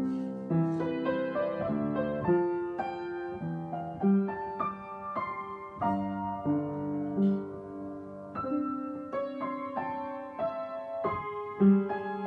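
Solo piano playing a flowing line of notes, about two a second, over held lower notes, each note ringing on into the next.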